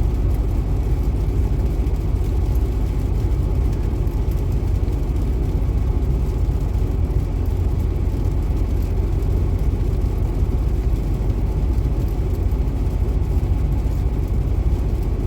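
Heavy engine of a snow-plowing vehicle idling steadily with a low, even rumble.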